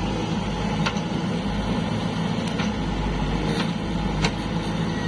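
A heavy diesel engine running steadily, with a few short sharp clicks or knocks over it.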